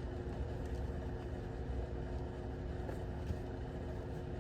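Steady low hum and rumble with a few faint ticks.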